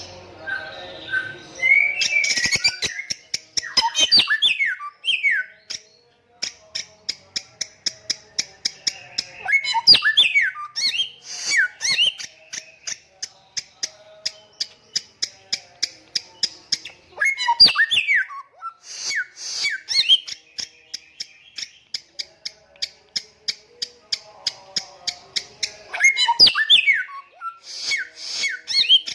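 Bare-throated whistler singing: a long, fast, even series of short high notes, broken several times by louder phrases of sliding whistles.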